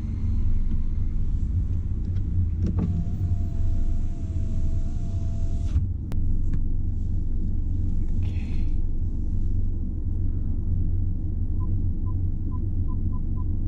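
Inside a BMW 1 Series (F20) cabin with the car moving slowly: a steady low engine and road rumble. About three seconds in, an electric window motor whines steadily for about three seconds, starting and stopping with a click. Near the end a series of short, evenly pitched beeps starts, about three a second.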